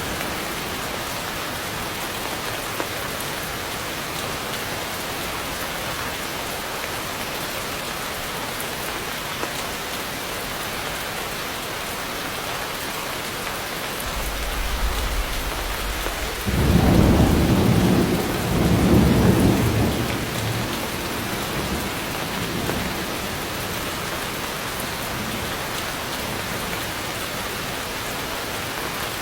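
Heavy rain falling steadily, with a roll of thunder about halfway through that builds, rumbles loudest for a few seconds, then fades back into the rain.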